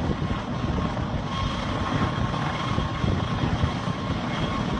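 Helicopter running, a steady rumble of rotor and engine noise with a thin steady whine above it.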